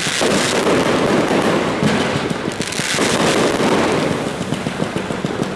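Fireworks going off as a dense, continuous crackle of rapid bangs.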